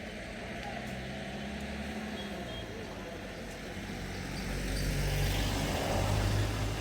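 Motor vehicle engine running steadily, getting louder about two-thirds of the way through as it nears or revs.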